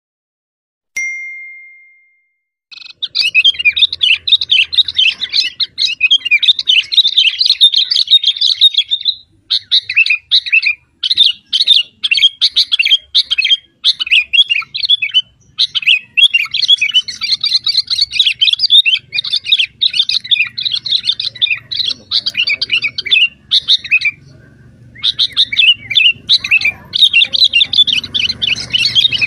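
A single ringing ding about a second in, then a bird twittering in fast, dense chirps almost without pause, broken by a few short gaps.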